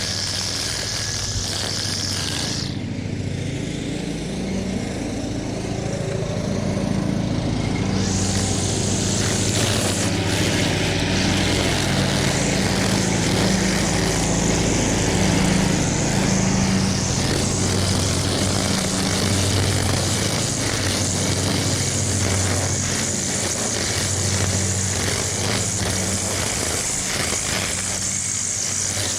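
Husqvarna 520iLX battery string trimmer running and cutting grass, the spinning line head making a steady whirring hum that rises and falls as it works.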